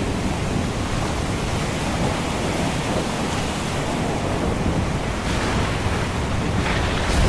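Ocean surf washing steadily, with a deep rumbling low end and a couple of brighter surges of breaking water in the last two seconds.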